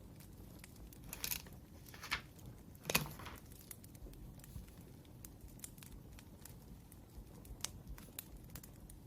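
Wood fire crackling, with scattered small pops and ticks. Three louder rustles, about one, two and three seconds in.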